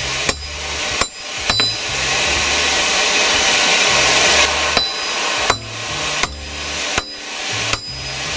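Hammer blows on steel at the anvil, each with a short metallic ring: three strikes, a pause of about three seconds, then a regular run of about one blow every 0.7 s. A steady rushing noise runs underneath.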